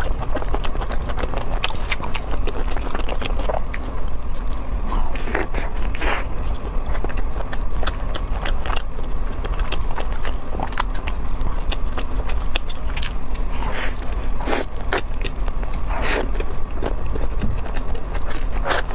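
Close-miked chewing of a fried crayfish taco, with sharp crunches at irregular intervals throughout.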